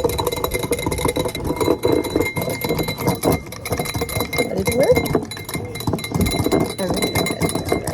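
Rapid clinking and rattling of dishes or utensils, with faint voices in the background.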